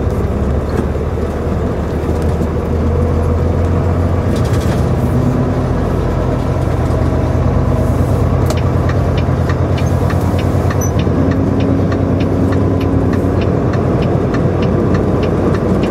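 Semi truck's diesel engine running steadily, with a light regular ticking over it in the second half.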